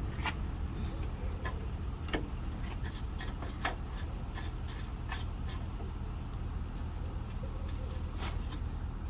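Steady low engine hum, like an idling diesel, with scattered sharp metallic clicks and taps from hand tools working on the seized fifth-wheel parts.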